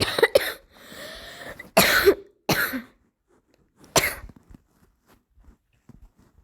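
A person coughing several times in short harsh bursts, the loudest about two seconds in and a last one about four seconds in.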